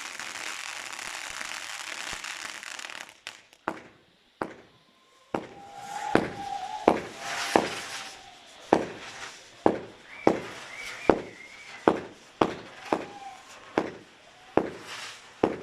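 Fireworks display: a dense hissing crackle for about three seconds, then it drops off and a string of sharp bangs follows, roughly one a second, with short whistling tones among them.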